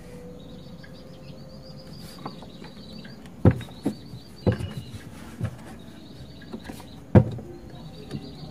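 A few sharp knocks and clicks from power sprayer pump parts being handled during greasing, the loudest a little past halfway, over steady chirping of birds or insects.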